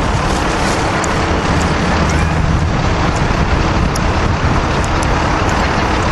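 Amtrak Northeast Regional trains passing each other at speed, hauled by ACS-64 electric locomotives: a loud, steady rush and rumble of wheels on rail with a low hum underneath.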